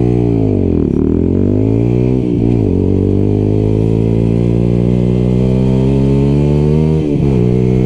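125cc Lexmoto LXR sport bike with an aftermarket exhaust, riding under power. The engine note dips and picks up again twice early on as gears change, then climbs steadily through a long pull. It drops sharply at another gear change about seven seconds in and starts rising again.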